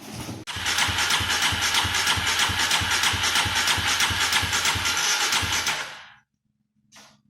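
Polaris Predator 500's single-cylinder four-stroke engine being cranked over by its electric starter on a shot of ether, after a brief hiss. The compression strokes come evenly at about three a second for some five seconds, and then the cranking stops without the engine catching.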